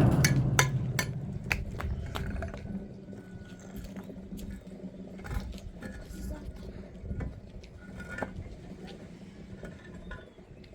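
Hard objects being handled: sharp clinks and knocks, dense at first and thinning to scattered taps after about two seconds.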